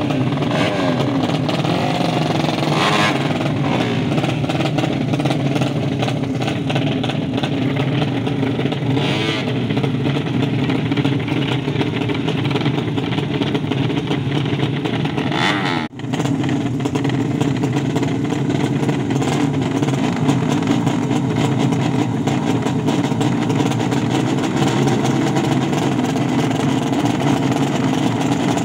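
Racing motorcycle engine running loudly and steadily with some revving. The sound briefly cuts out about sixteen seconds in.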